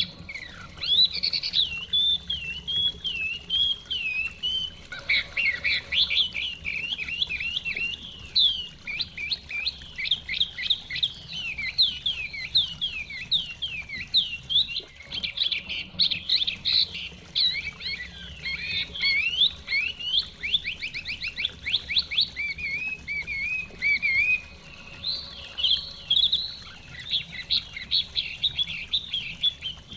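Chinese hwamei (họa mi) singing without pause in fast, varied whistled phrases and rapid trills, over a faint low rush of stream water.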